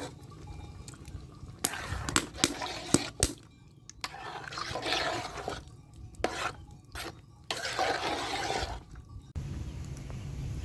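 Water splashing and pouring in three short spells, with a few sharp knocks in between. Near the end it gives way abruptly to a steady low hum.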